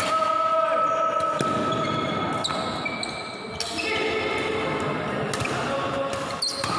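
Badminton being played in an echoing hall: sharp racket strikes on the shuttlecock and footfalls on the court floor.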